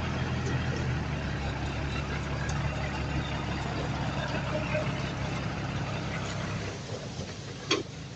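Heavy diesel engine of earthmoving equipment running steadily with a low hum, fading away about seven seconds in, followed by a short sharp knock.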